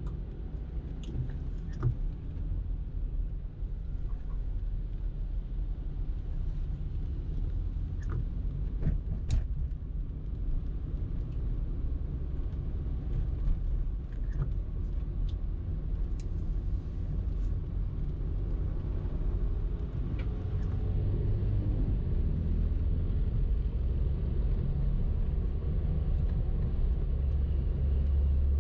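Car driving in traffic: a steady low rumble of engine and road noise that grows louder in the last third, with a few faint clicks.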